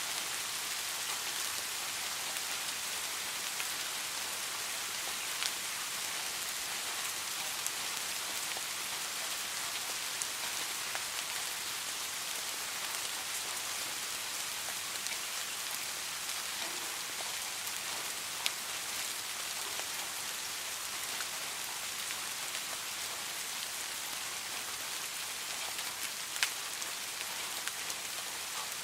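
Steady rain, an even hiss with a few sharper drop ticks standing out now and then.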